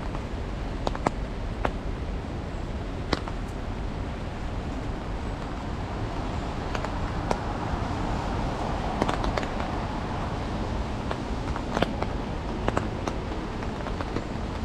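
Irregular single raindrops tapping on an umbrella overhead, as sharp ticks a second or so apart, over a steady low hiss and rumble of rain and city noise. A broad wash of noise swells and fades around the middle.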